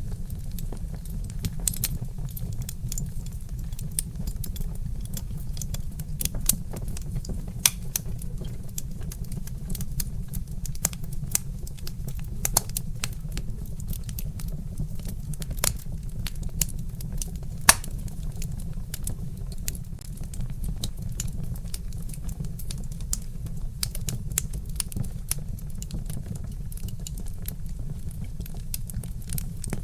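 Wood fire crackling with irregular sharp pops and snaps, one louder pop about two-thirds of the way through, over a steady low rumble.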